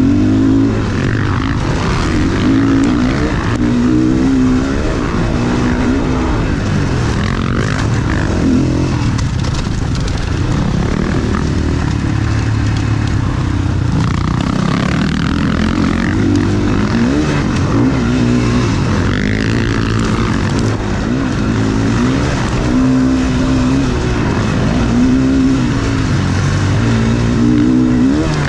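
Motocross bike's engine racing on a dirt track, the revs repeatedly climbing and dropping as the rider accelerates out of corners and backs off into them.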